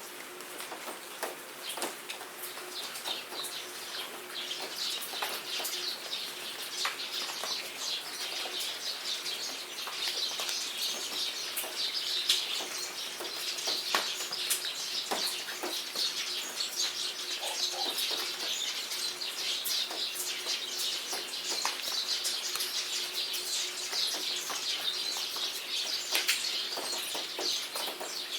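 Rain falling in a jungle, with scattered drip clicks, under many birds chirping and singing continuously.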